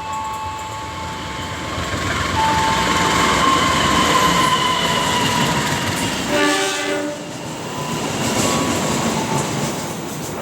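Kutojaya Utara passenger train running past with steady rushing wheel-and-rail noise. Thin high steady tones sound in the first few seconds, and the locomotive's horn gives one short blast about six and a half seconds in.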